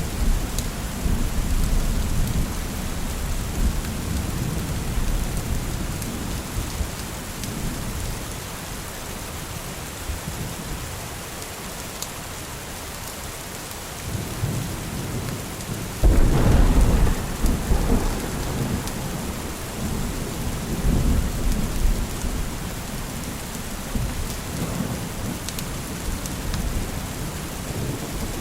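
Steady heavy rain with thunder: a low rumble dies away over the first several seconds, then a sudden thunderclap a little past the middle rolls on for several seconds before fading back under the rain.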